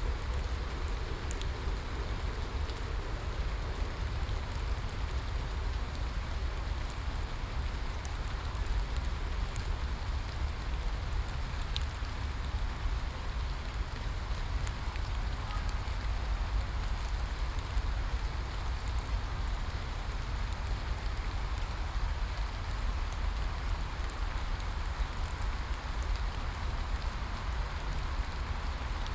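Steady rain falling, with scattered sharp drop ticks and a constant low rumble underneath.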